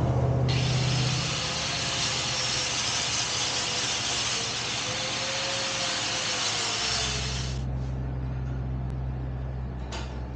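Angle grinder grinding metal exhaust pipe, a steady harsh hiss with a wavering whine. It starts about half a second in and stops after about seven seconds.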